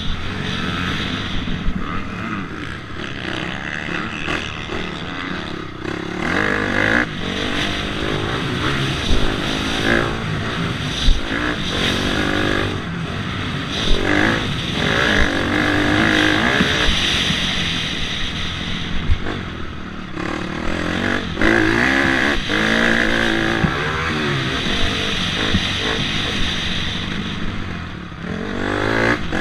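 Dirt bike engine being ridden hard, revving up and falling back again and again as it goes through the gears, with a few sharp knocks along the way.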